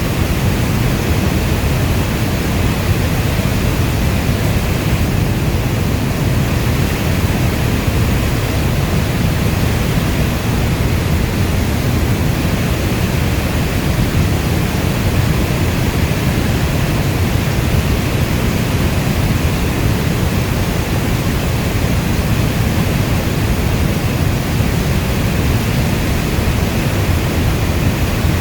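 Steady heavy rain: a dense, even wash of noise, heaviest in the low end, with no single drops, thunder or changes standing out.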